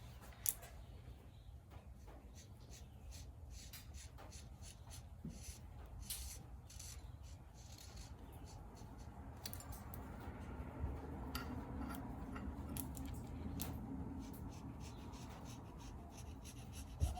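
Paint pen or marker drawing guidelines on a forged steel knife blade: faint scratching and rubbing strokes with scattered light clicks, over a low steady hum.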